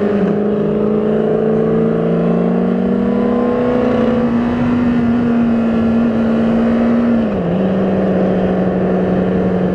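Engine drone while riding in traffic over steady wind rush, its pitch rising slowly for about four seconds, holding, then dropping a step about seven and a half seconds in.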